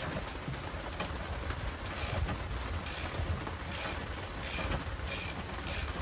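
Half-inch ratchet with a 1 1/16-inch socket clicking in short repeated runs, about one to two a second, as it backs the anode rod out of an RV water heater. A steady low rumble runs underneath.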